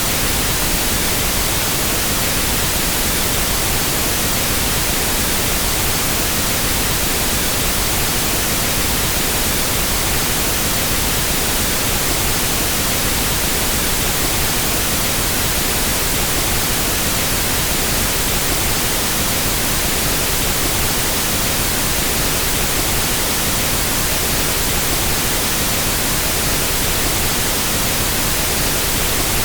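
Pink noise test signal for equalizing sound systems: a constant, even hiss that does not change.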